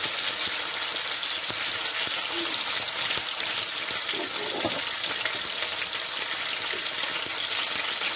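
Chicken breast pieces frying in hot oil in a wok: a steady sizzling hiss.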